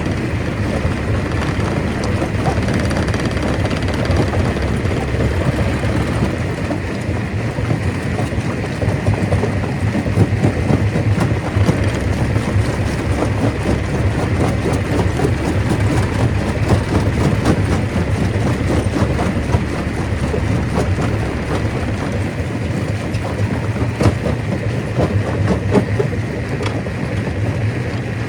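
Stone crusher running: a steady, heavy machine hum under a dense, constant clatter of rock being broken and tumbling through it.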